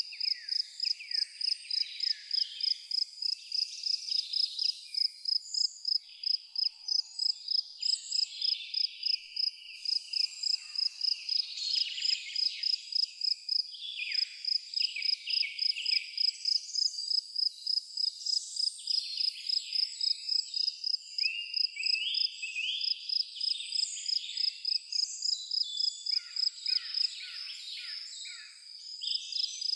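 A cricket chirping in a steady, even rhythm of high pulses, with several birds singing over it in quick falling trills and whistles. The chirping stops for about two seconds near the end.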